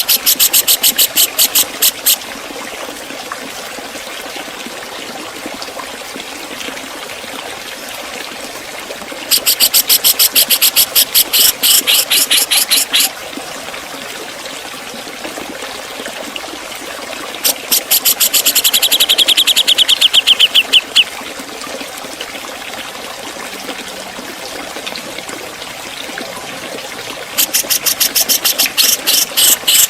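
Javan cucak jenggot (grey-cheeked bulbul) singing its sharp 'ngepik' song: four bursts of rapid, evenly repeated high notes, each two to four seconds long. Between them runs a steady background of running water.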